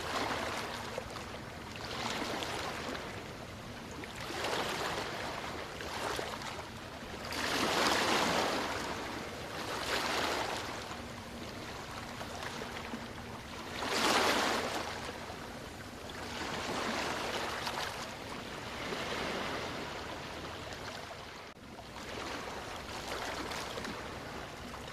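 Sea waves washing in and out, the wash swelling and fading every two to three seconds, with two stronger surges, one about a third of the way in and one just past the middle.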